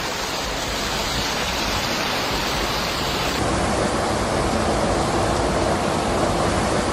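Rushing floodwater: a steady, dense noise of fast-flowing water, with a cut about three and a half seconds in to a second clip of the same kind.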